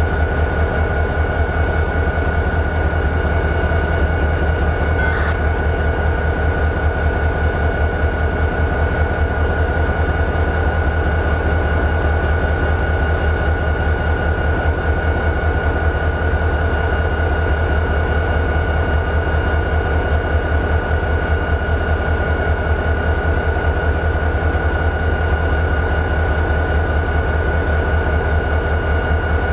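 EMD 645 diesel engine of a GP40-2 locomotive idling: a steady, rapidly pulsing low drone with a constant high whine above it.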